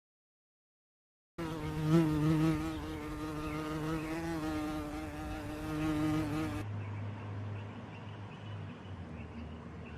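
Buzzing of a flying insect: a steady drone with a slightly wavering pitch, starting about a second and a half in. About two-thirds through it gives way to a lower, fainter hum.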